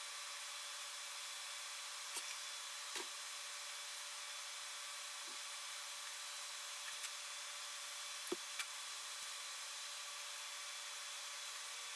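Four or five light clicks of hand tools being handled, over a steady faint hiss.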